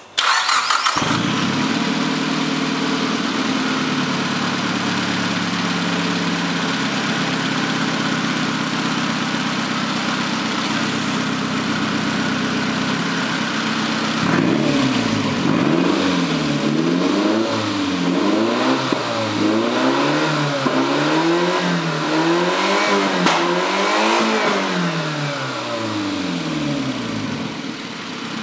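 Nissan SR20DET 2.0-litre turbocharged four-cylinder engine starting up and idling steadily, then revved again and again in a series of quick rises and falls from about halfway through, settling back to idle near the end.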